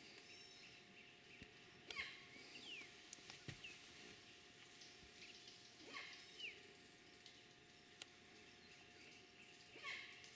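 Near silence: faint outdoor background with a few faint, short, sliding bird chirps and a few soft knocks.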